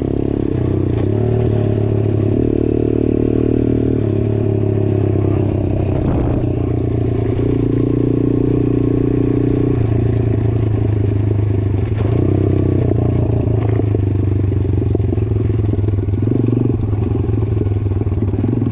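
Motorcycle running continuously while riding a trail, its pitch shifting up and down in steps with the throttle, with clatter and scraping from the ride.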